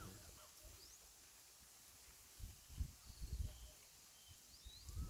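Faint birds calling in the open air: a few thin, short rising chirps over a quiet hush, with some low muffled bumps about halfway through.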